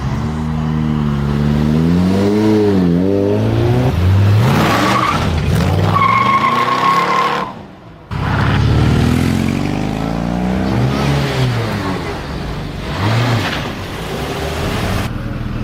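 High-performance car engines revving hard as cars accelerate away, the pitch climbing and dropping through gear changes, with a high-pitched squeal lasting about a second and a half some six seconds in. The sound cuts out briefly near the middle and another car then revs up and pulls away.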